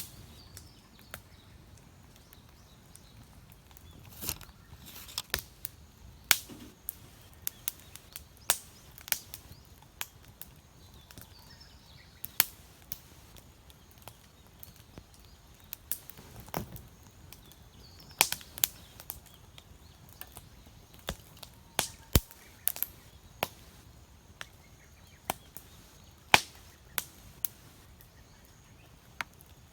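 Firewood burning in a campfire, cracking and popping irregularly: single sharp pops every second or two, some in quick clusters, over a low steady background.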